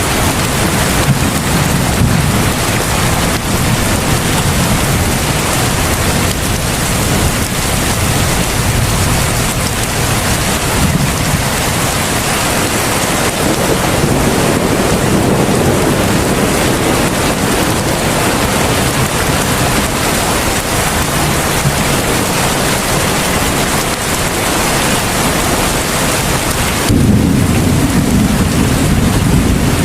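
Heavy rain pouring steadily, a dense hiss with a low rumble beneath it. Near the end the sound changes abruptly and the low rumble grows louder.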